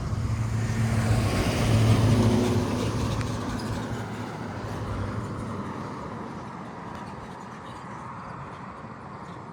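UPS delivery truck driving past, its engine hum growing to a peak about two seconds in and then fading away.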